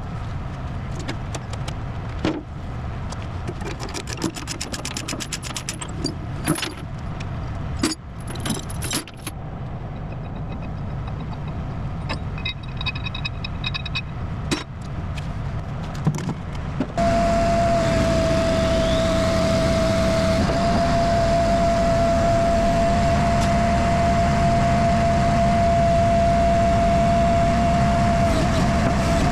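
Metal tie-down chains and binders clinking and rattling, with scattered clicks and knocks over a low steady truck idle. About seventeen seconds in this gives way abruptly to a louder steady running sound with one high steady whine.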